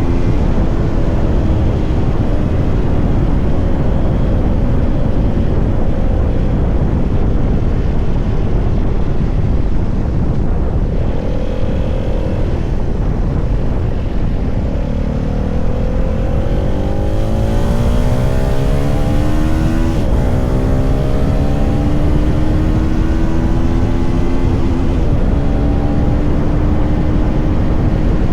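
CFMoto 300SR motorcycle's single-cylinder engine under way. The pitch falls slowly over the first several seconds, then climbs as it accelerates in the middle, drops sharply at an upshift about two-thirds of the way in, and climbs and holds again. Heavy wind rumble runs under it throughout.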